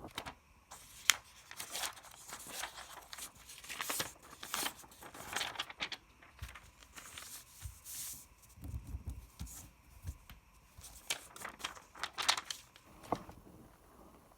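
A sheet of origami paper being folded and creased by hand, with crisp, irregular crinkles and rustles. There are a few soft low thumps around the middle.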